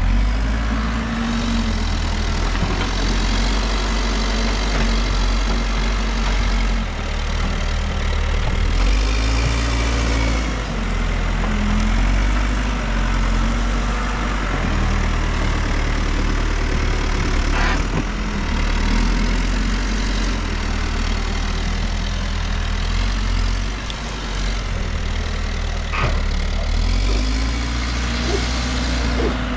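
New Holland backhoe loader's diesel engine running, its note rising and falling every few seconds as the hydraulics are worked. A few sharp knocks come through, twice plainly.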